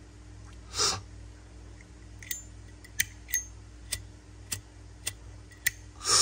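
Metal Zippo lighters being handled: about seven sharp clicks at uneven intervals, several with a brief metallic ring. A short breathy rush comes about a second in and again at the end.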